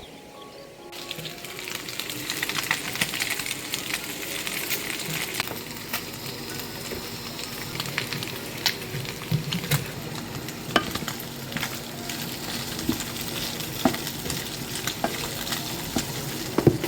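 Food frying in a pan: a sizzle starts suddenly about a second in and keeps going, with sharp crackles and pops all through.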